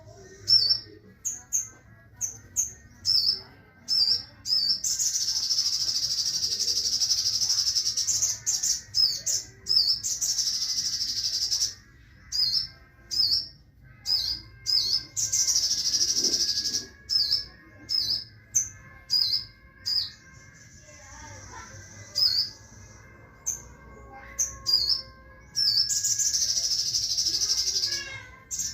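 Sogon birds calling while being paired: a string of short, sharp chirps, one or two a second, broken four times by long buzzing trills of two to three seconds each.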